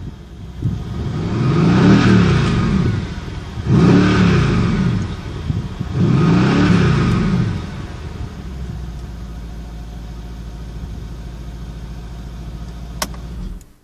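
Mercedes-Benz CLS 63 AMG's 5.5-litre biturbo V8 revved three times in Park, each rev rising and falling back, then settling to a steady idle. A single sharp click comes near the end.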